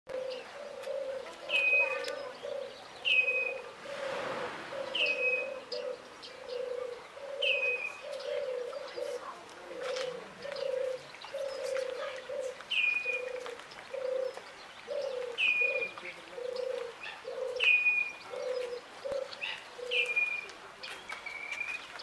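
Birds calling in an aviary: a steady run of low repeated notes, about two a second, over a short higher call that dips then levels off and comes every second or two.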